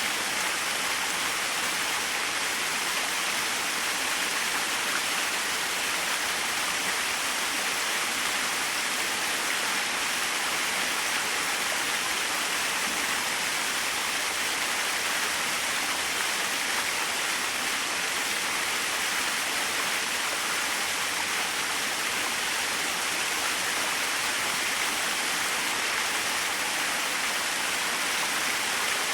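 Small waterfall splashing steadily, an even rushing hiss of falling water with no low rumble.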